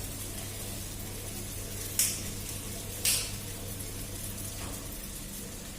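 Chow mein noodles with liver frying in a pan: a steady sizzle, with two short, sharp bursts of hiss about a second apart, about two and three seconds in.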